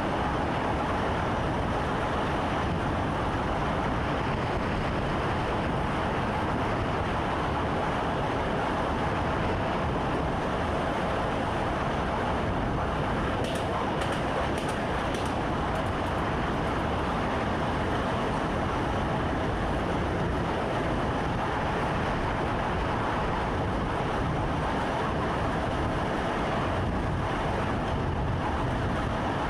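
Steady running noise of a commuter train heard inside the driver's cab: an even rumble and rush with a faint constant hum, and a few light ticks about halfway through.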